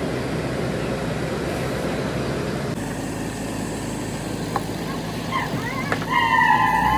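A heavy engine running steadily. About two and a half seconds in, the sound cuts abruptly to a quieter background. Near the end comes a long, wavering, high-pitched call.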